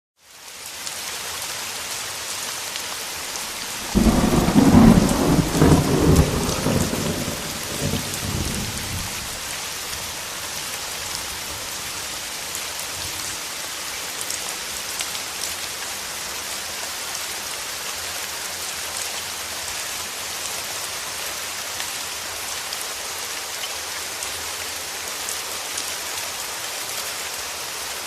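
Steady rain hiss with scattered drop ticks, fading in at the start. About four seconds in a loud clap of thunder breaks suddenly and rolls away over the next five seconds.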